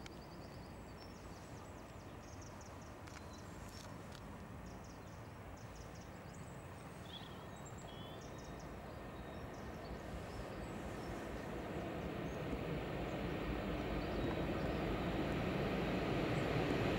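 Electric locomotive and its train approaching on the line, a steady rumble that grows gradually louder over the second half. Birds chirp faintly in the first half.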